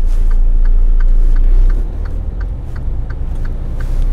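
Diesel engine of a day-cab semi truck rumbling while driving, easing off about two seconds in. Over it runs a steady ticking, about three ticks a second.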